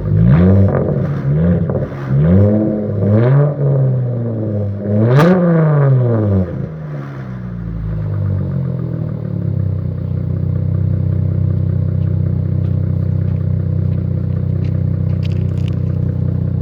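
Straight-piped 3.6-litre V6 exhaust of a 2015 Dodge Charger, with an X-pipe and the muffler and resonators deleted, revved in a series of quick blips, the highest about five seconds in. It then drops back and settles into a steady idle.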